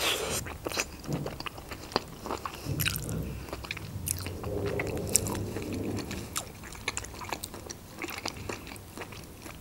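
Close-miked chewing and wet mouth sounds of eating a soft, cheesy champignon mushroom dish. A strand of melted cheese is sucked in, and many small lip smacks and clicks run through the chewing.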